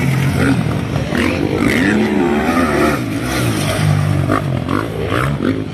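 Several motocross bikes' engines running at once, their pitch rising and falling as the riders rev and shift around the track.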